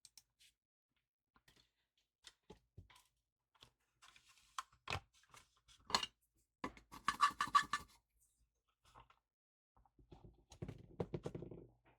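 Small clicks and scratching of hands handling the opened solar light and its battery, with a short louder rasp about seven seconds in and another near the end.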